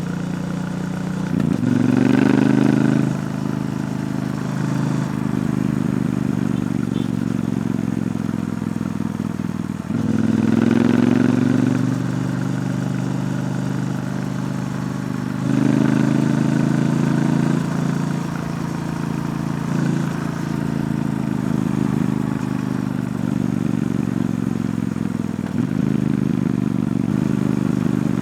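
Triumph Bonneville T120's 1200 cc parallel-twin running through its stock exhaust while riding, swelling louder and higher three times as it accelerates, about two seconds in, ten seconds in and at about fifteen seconds.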